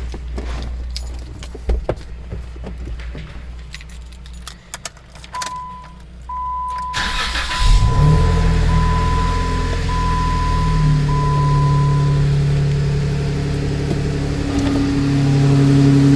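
Jeep Wrangler cold start. Keys rattle and click at first, then an electronic warning chime beeps steadily. About halfway through, the starter cranks briefly and the engine catches, settling into a steady cold idle that lasts while the chime stops.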